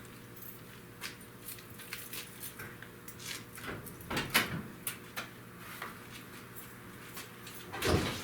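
Scattered clicks, knocks and rattles of someone handling things at a car, over a faint steady hum. A louder cluster comes about four seconds in, and a heavy thump near the end.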